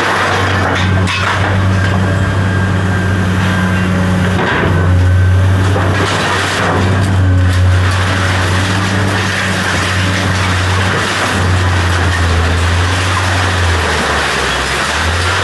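Heavy machine's engine running steadily at a constant speed, with a few knocks over it and a brief dip in pitch near the end.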